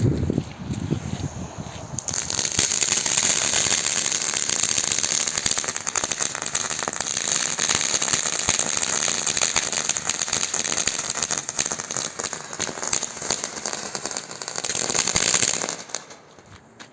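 Flower fountain firework spraying with a steady hiss and dense crackling; it starts about two seconds in and cuts out near the end.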